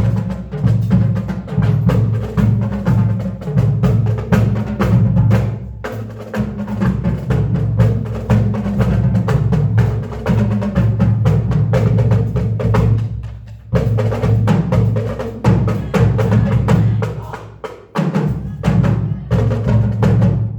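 Percussion music: drums playing a fast, driving rhythm of sharp strikes with a heavy low drum underneath. It drops away briefly twice, about 13 and 18 seconds in.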